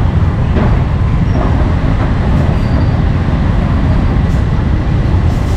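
Steady low rumble of road traffic going by, with faint voices.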